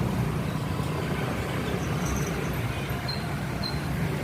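Steady low rumble of street traffic with engine hum from passing vehicles.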